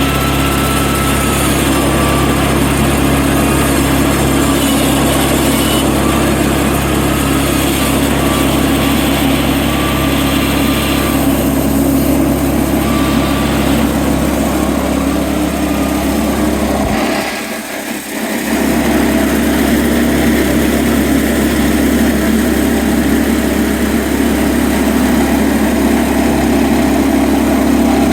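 Sawmill engine running steadily at working speed, with the sound briefly dropping out about two-thirds of the way through.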